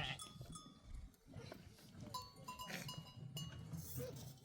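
Neck bells on a flock of goats and sheep clinking, with several short, clear rings.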